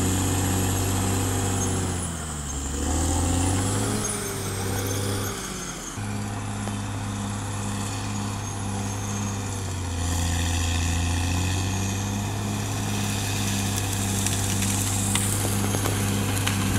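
Caterpillar D6R XL bulldozer's diesel engine running steadily. Its pitch drops and climbs back a couple of seconds in, then holds steady again.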